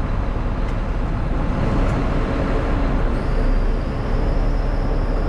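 Roll-off truck's engine running steadily with the PTO engaged while its hydraulic hoist lowers the flatbed body; a steady high whine joins about three seconds in.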